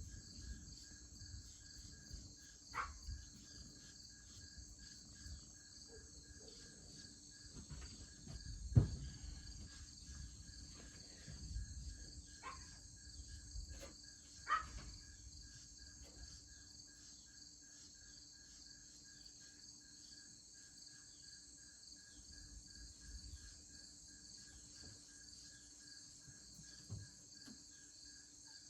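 Steady chorus of crickets and other insects, an even high chirring with a pulsing note beneath it. A few short knocks cut through, the loudest about nine seconds in.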